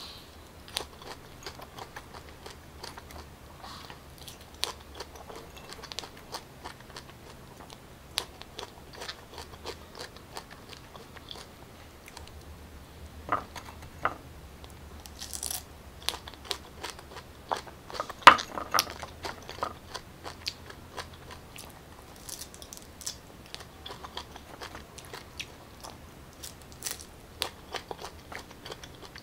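Close-up biting and chewing of raw pineapple chunks: many short, crisp bites and wet chewing clicks, with a few louder bites about halfway through.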